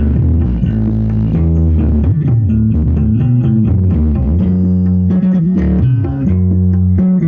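Loud music with a prominent bass guitar and guitar, played back through a large sound system. The heavy sustained bass notes dominate.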